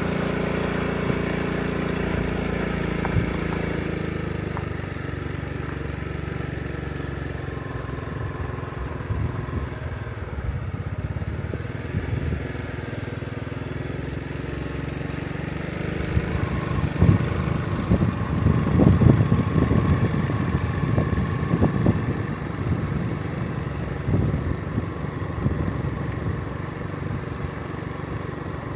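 An engine running, with a steady hum that fades after a few seconds, then a louder, rougher stretch about two-thirds of the way through.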